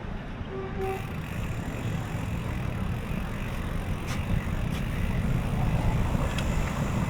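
Wind rumbling on the microphone of a moving bicycle, with street traffic noise behind it. A short beep sounds about half a second in, and a few faint clicks come later.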